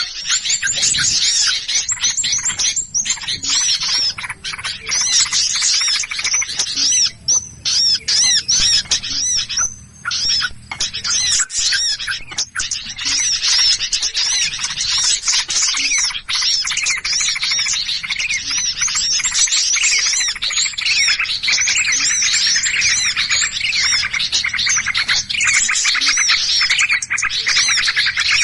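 A dense chorus of many small birds calling in agitation, with rapid high chirps and chatter overlapping without a break. This is the noisy, excited flock sound used as a bird lure.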